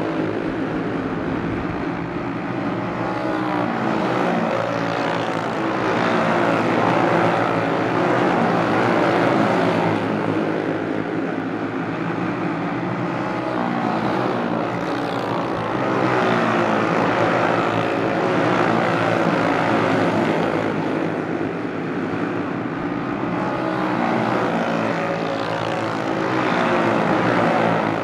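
A pack of racing karts running Briggs & Stratton Animal single-cylinder four-stroke engines, many engines revving at once with their pitches rising and falling as drivers work the throttle through the turns. The sound swells and eases every several seconds as the pack comes around.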